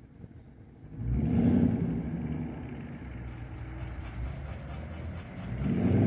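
Low rumble of a passing road vehicle, swelling suddenly about a second in and again near the end.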